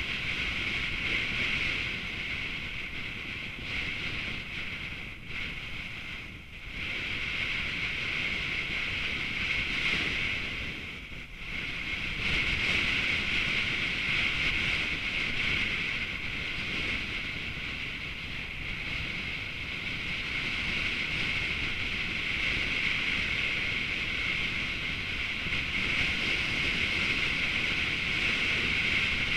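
Steady rush of wind on the microphone and road noise from a moving vehicle, with two brief lulls, about six and eleven seconds in.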